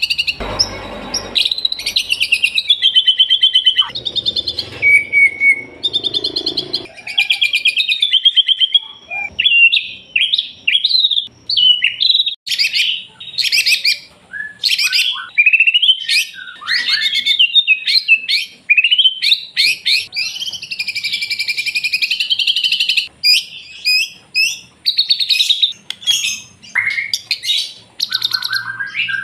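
White-rumped shama (murai batu) singing loudly: a long, varied run of rapid trills, chattering note series and whistled glides, with short pauses between phrases.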